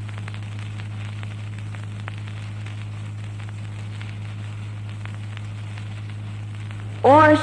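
Steady low electrical hum under hiss and a fine scattered crackle: the background noise of the recording between recited verses. Near the end a man's voice starts a long rising recited note as the qari begins the next surah.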